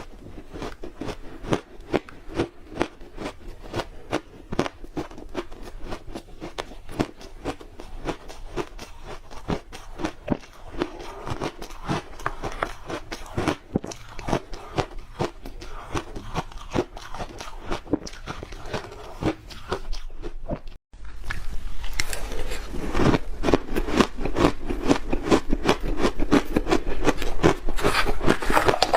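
Ice being bitten and crunched close to the microphone: a dense, irregular run of sharp cracks and crunches. It stops for an instant about two-thirds of the way through, then comes back louder.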